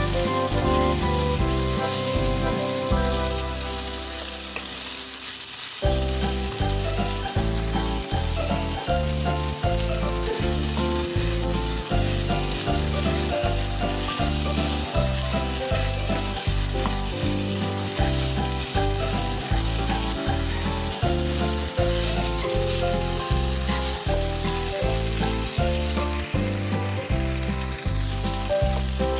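Pork slices sizzling as they fry in a non-stick pan, turned now and then with a wooden spatula. Under it runs background music with sustained notes and a steady beat, which fades briefly a few seconds in and returns about six seconds in.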